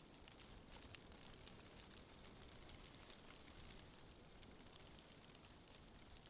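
Faint, steady outdoor ambience: a soft even hiss with many scattered light crackling ticks.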